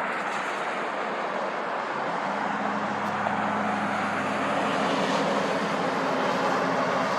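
Lockheed C-130 Hercules' four turboprop engines running as the aircraft passes: a steady rush, with a low hum that comes in about two seconds in and grows slightly louder.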